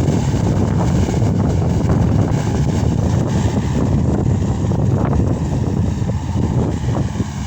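Case SR200 skid steer loader's diesel engine running steadily, a low continuous rumble.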